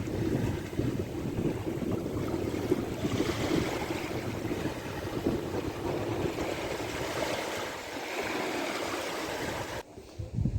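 Sea surf washing onto the shore in slow swells, with wind buffeting the microphone; it cuts off suddenly near the end.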